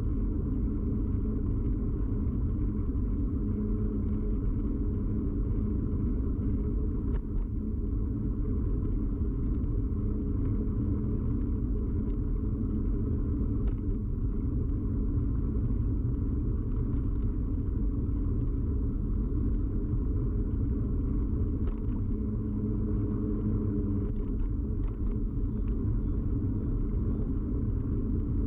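Steady low rumble of a bicycle ride picked up by a camera fixed to the bike: road and tyre vibration carried through the frame into the camera, with a few faint ticks.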